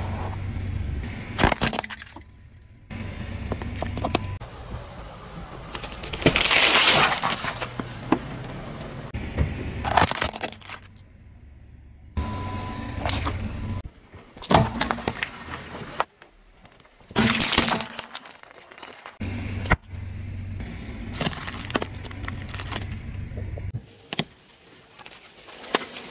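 A car's tyre rolling over and crushing brittle objects: repeated loud cracking and crunching, one long crunch about six seconds in, over a low rumble from the car. The sound changes abruptly several times between separate crushes.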